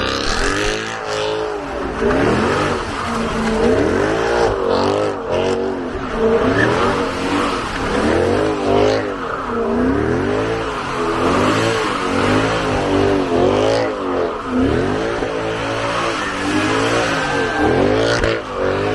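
Mercedes-AMG C63 V8 revved up and down over and over, about once a second, while spinning donuts, with a steady haze of tyre noise under the engine.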